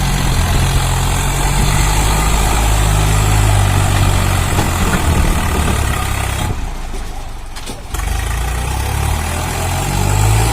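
Swaraj 744 tractor's diesel engine running steadily. About two-thirds of the way through, the sound drops away briefly, then comes back abruptly.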